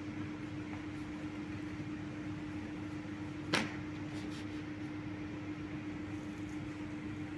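Steady mechanical hum with a single pitched tone over a hiss, broken once by a sharp click about three and a half seconds in.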